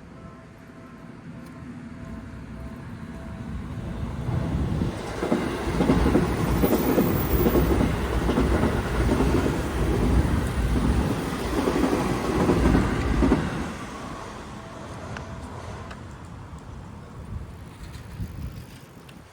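Seibu Shinjuku Line electric train passing the level crossing: it builds up over the first few seconds, then rumbles and clatters loudly on the rails for about eight seconds, and dies away slowly as it moves off.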